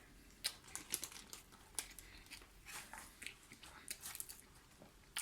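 Faint, irregular crackling and crunching as a kebab sandwich in round sesame bread is handled and picked at, many small sharp crackles in quick succession.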